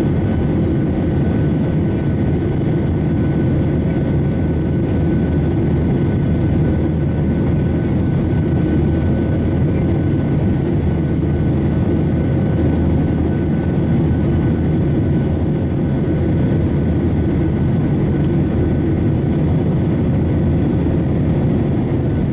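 Boeing 737-800 jet engines and airflow making a steady, unchanging low rumble, with a few faint steady tones above it.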